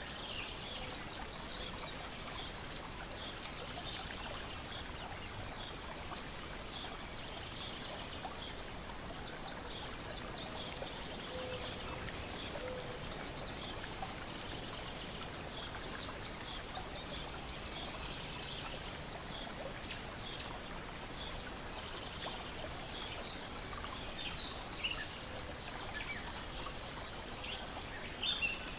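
Lake water lapping steadily at the shore, with small birds chirping and singing throughout. A wood fire crackles with occasional sharp pops, more of them in the last few seconds.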